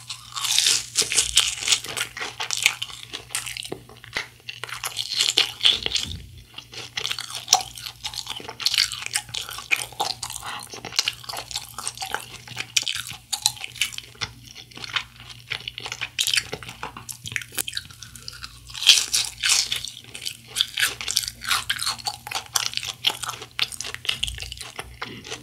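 Close-miked crunching and chewing of crisp fried food, the crackles coming in repeated bursts as bites are chewed, over a faint steady low hum.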